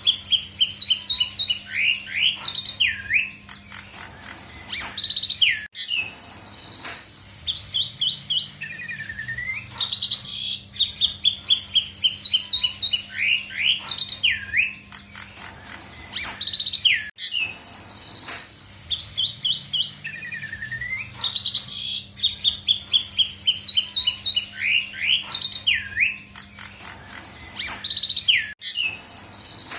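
Jalak suren (pied starling) singing a varied song full of imitated phrases: quick chirps, rapid trills and whistled notes that swoop up and down. The same song sequence repeats about every eleven seconds.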